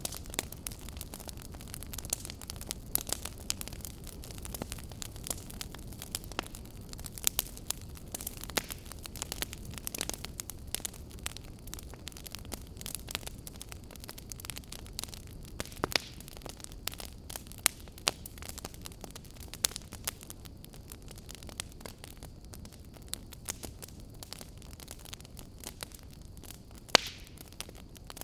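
Wood fire burning, with frequent sharp crackles and pops at irregular intervals over a low steady rush of flame.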